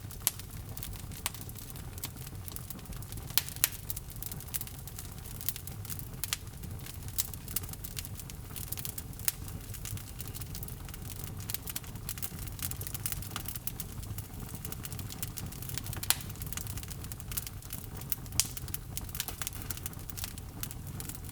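Wood fire in a fireplace burning, with a low steady rumble of flame and irregular crackles and pops from the burning logs, a few sharper pops standing out.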